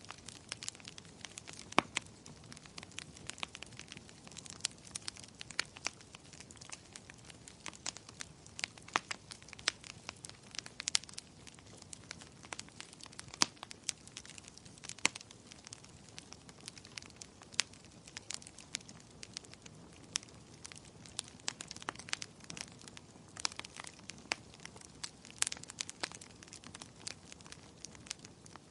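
Wood fire crackling in a fireplace: irregular sharp pops and snaps, a few every second, over a soft steady hiss of burning.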